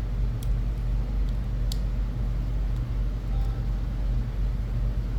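Steady low background hum and rumble, with two faint clicks about half a second and just under two seconds in.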